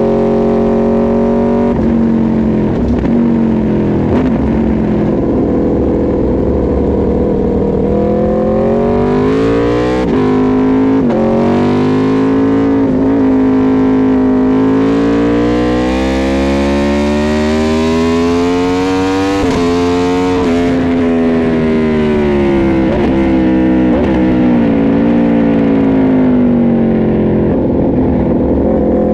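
Aprilia RSV4 RF's V4 engine at racing speed on track, loud throughout. Revs fall off, climb again with several short dips at gear changes, drop back under deceleration, and rise once more near the end.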